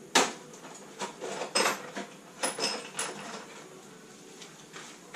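Metal tools and parts being handled during work on a classic Mini engine: one sharp knock just after the start, then a few clinks and rattles in the middle, then quiet handling.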